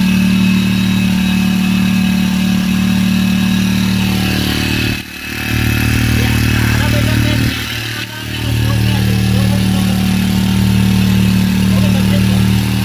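Repaired four-stroke engine running steadily at a constant low pitch. Its sound drops away briefly twice, about five and eight seconds in, and then picks up again.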